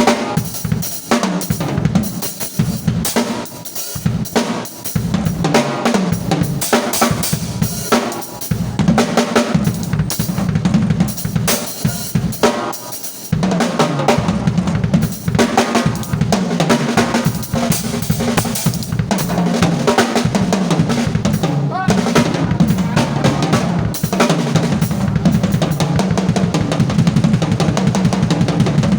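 Drum kit played at a sound check, kick drum, snare and cymbals struck in quick succession throughout, with a brief let-up about halfway through.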